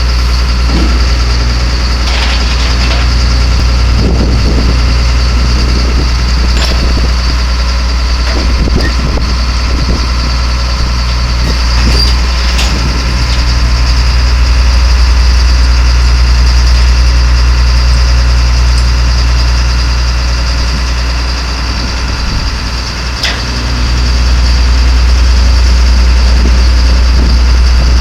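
Duramax 6.6L turbo diesel engine of a GMC C6500 roll-off truck idling steadily, dipping briefly near the end, with a few light clicks over it.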